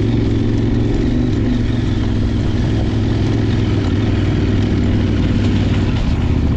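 Adventure motorcycle engine running steadily at a constant pitch, with no clear revving.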